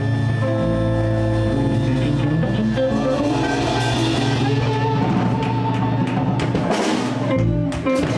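Live blues band playing: electric guitars, bass guitar and drum kit, with cymbal and drum hits coming thicker in the last few seconds.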